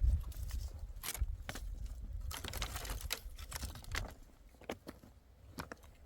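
Scattered light clicks and crackles, irregular, with a short stretch of rustling about two and a half seconds in and a low rumble in the first second; quieter near the end.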